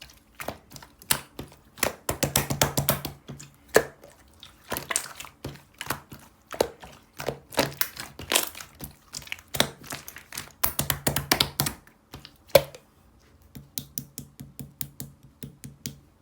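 Rapid clicking and tapping in flurries of a few seconds each, with short pauses between them and a lighter, quicker run of ticks near the end.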